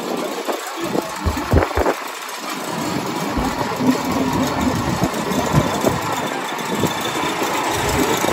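A vehicle engine idling steadily, likely the port tram's, with a few short knocks between about one and two seconds in.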